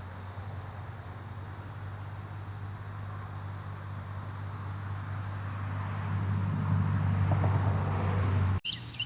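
Steady low motor hum that slowly grows louder, then cuts off abruptly near the end.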